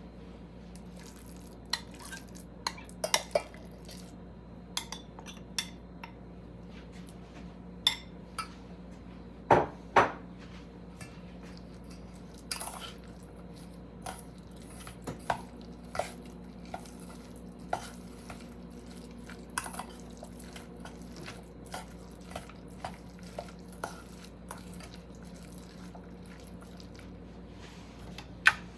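Utensil clinking and knocking against a bowl in irregular taps while food is mixed, a few knocks louder than the rest, over a steady low hum.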